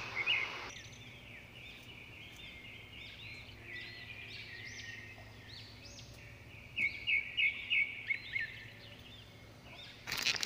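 Small birds chirping repeatedly, with a run of louder quick chirps about seven seconds in, over a faint steady low hum.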